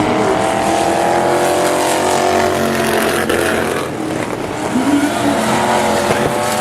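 Engines of several hit-to-pass demo race vehicles running hard around a speedway oval, their pitch rising and falling as they accelerate and lift, with another engine climbing in pitch about five seconds in.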